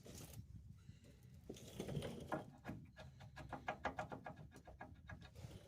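Metal hand tools clinking: a quick run of light, sharp metallic clicks, about four or five a second, from about one and a half seconds in.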